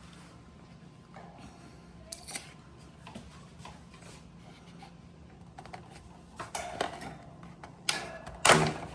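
Hands handling a plastic electric fan's housing while taking it apart: scattered light clicks and taps, with several sharper clicks near the end, over a faint steady hum.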